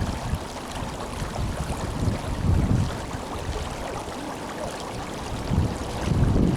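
Tenryū River water rushing and flowing steadily, with low rumbling swells about two seconds in and again near the end.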